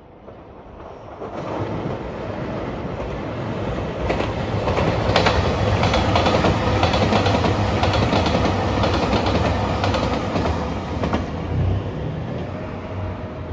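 Nanpu diesel limited express train passing close by. Its rumble builds, then wheels clatter over the rail joints in a dense run of clicks at the loudest point, and the sound fades as the train moves away.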